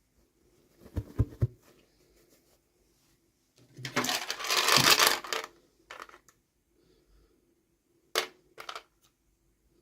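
Toy packaging being handled and opened by hand: a few clicks and knocks about a second in, then a longer burst of crinkling and tearing about four seconds in, which is the loudest part, and two sharp taps near the end.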